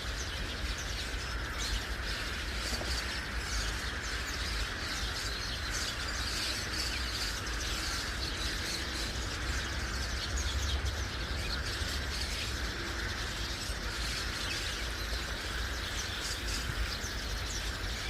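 Many birds chirping at once in a continuous flock chatter, over a low rumble.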